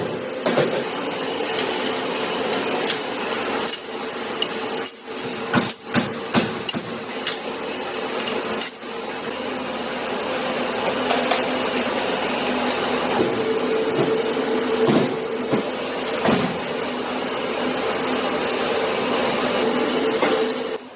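Engine-assembly workshop noise: a steady machine hum with irregular metallic knocks and clinks from tools being worked on engine parts.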